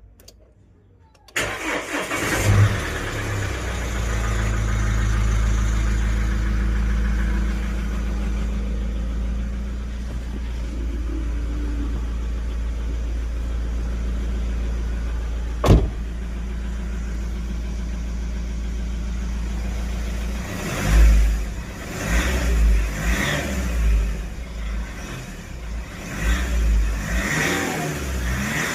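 Mahindra Scorpio S11's mHawk turbo-diesel engine cold-starting after standing for a month: it catches about a second in, flares briefly, then settles into a steady idle, with one sharp knock about two-thirds of the way through. From about twenty seconds in it is revved in a series of quick throttle blips.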